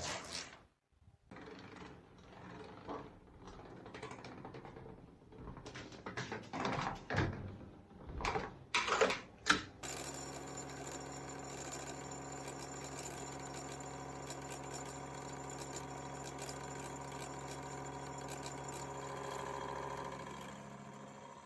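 Workshop machinery: for about ten seconds, irregular scraping and clattering, then a steady machine hum with several constant tones that runs on unchanged.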